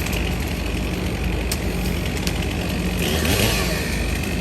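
Heavy engine idling steadily, with a brief hiss about three seconds in.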